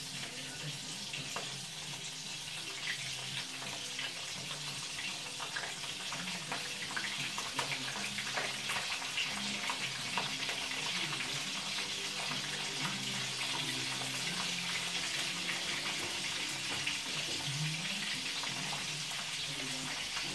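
Dried fish frying in hot cooking oil in a pan: a steady sizzle with many small crackles and pops, growing a little louder over the first few seconds.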